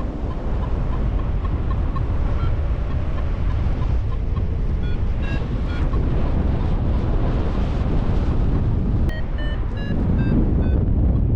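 Wind buffeting the microphone in flight, with a flight variometer's short electronic beeps over it. The beeps are faint and regular at first, and near the end a louder run of about six beeps steps slightly down in pitch.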